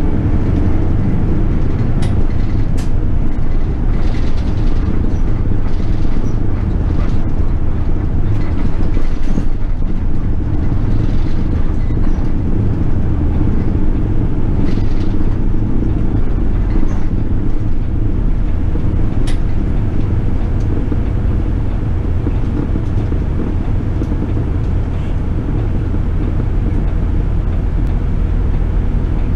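Toei city bus under way, heard from inside the cabin: a steady low engine and road rumble, with a few sharp ticks and rattles.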